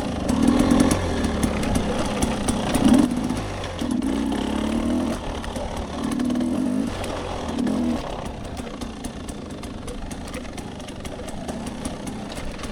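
Dirt bike engine revving in short bursts of throttle, about five times over the first eight seconds, then running more quietly and steadily.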